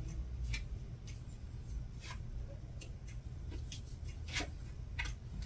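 Light, scattered clicks and taps of tarot cards and dice being handled and set down on a table, a few times a second apart, over a low steady hum.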